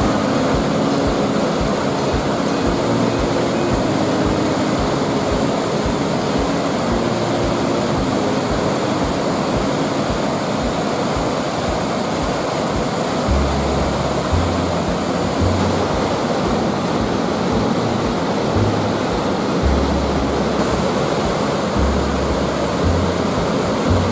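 Steady roar of rushing water, with background music carrying held low bass notes.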